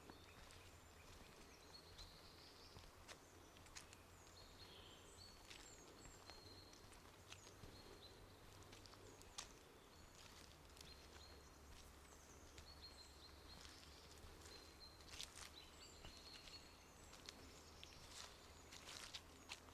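Faint outdoor ambience with scattered short, high bird chirps and occasional soft ticks, over a low steady hum.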